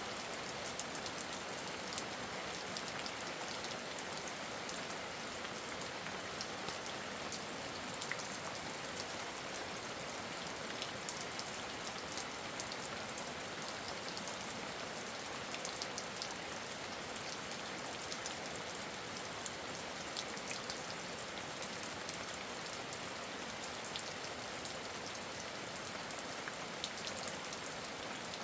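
Steady rain falling, with scattered drops ticking sharply on a nearby surface.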